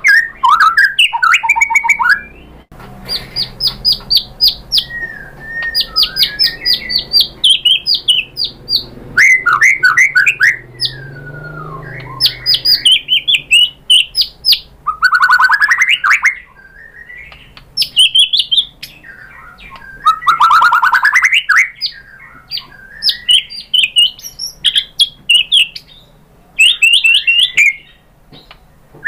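White-rumped shama singing a loud, varied song: fast runs of repeated chattering notes and sweeping whistled phrases, broken by short pauses between phrases.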